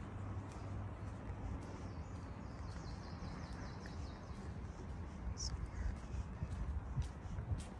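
Outdoor ambience with a steady low wind rumble on the microphone. A bird calls over it: a fast, high trill of ticks a couple of seconds in, then a single short high chirp a little past five seconds. A few short sharp knocks come near the end.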